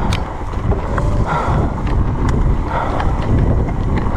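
E-mountain bike riding down a rough, wet trail: heavy wind rumble on the microphone over tyre noise, with scattered sharp knocks and rattles from the bike over the rocks.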